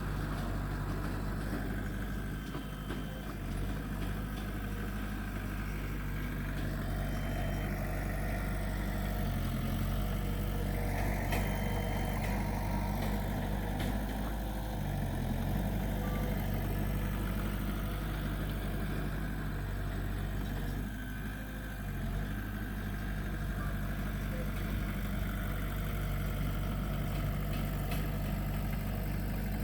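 Diesel engine of a Komatsu D20P crawler bulldozer running steadily as it works, its note shifting briefly about four times.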